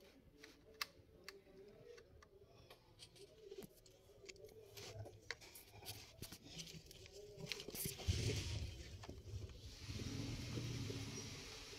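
Faint small clicks and scrapes of a screwdriver working the screws on the underside of a Lenovo G500 laptop, then a louder scrape about eight seconds in and a steady hiss with a low hum near the end.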